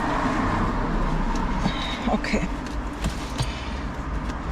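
Rustling and light knocks of notebooks and books being handled and packed into a box, over a steady low background noise.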